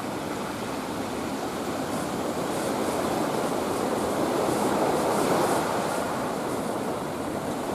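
Heavy surf stirred up by a typhoon: waves washing in as a steady rushing noise that swells a little midway.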